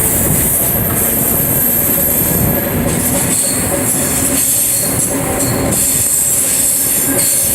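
Cobrasma 1000-series electric multiple unit running on the track, heard from aboard: a loud, steady rumble of wheels on rail with a high-pitched wheel squeal and a steady running whine.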